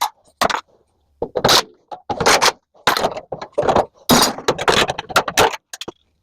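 A string of sharp metallic clanks and rattles, about a dozen in a few seconds, from metal parts of a microwave being pried and knocked apart by hand.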